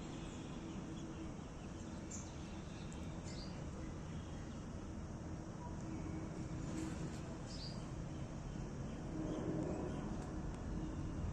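A steady low rumble with a faint hum, swelling slightly about nine seconds in, with several short bird chirps over it.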